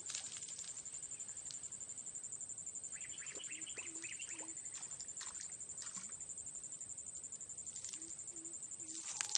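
Insects keep up a steady, high, finely pulsing trill. A few short low calls come in two groups of three, with a brief burst of quick chirping about three seconds in.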